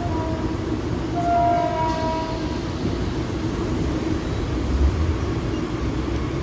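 Mumbai suburban local train running with a steady rumble. A short horn tone sounds about a second in and lasts about a second and a half.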